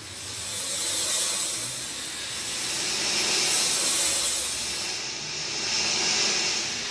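Rain falling steadily: a dense hiss, mostly high in pitch, that swells and eases every two to three seconds.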